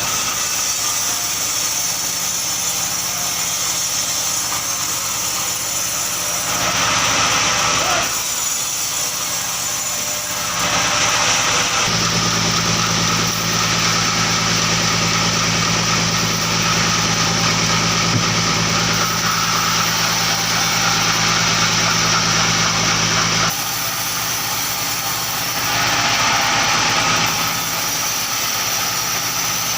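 Engine-powered wood saw running steadily, with louder stretches about a quarter of the way in, through most of the middle, and briefly near the end.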